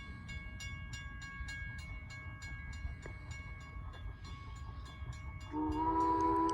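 Strasburg Rail Road steam train: an even beat of about four strikes a second with a ringing tone over it, then about five and a half seconds in a steam whistle sounds a loud chord that holds.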